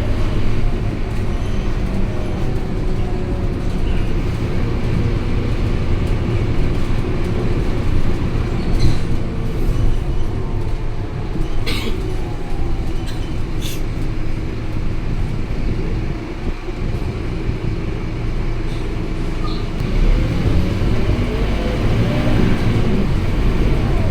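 Scania K230UB city bus's five-cylinder diesel engine running on the move. Its note falls at the start and rises again near the end as the bus slows and pulls away, with a few sharp clicks or rattles about halfway through.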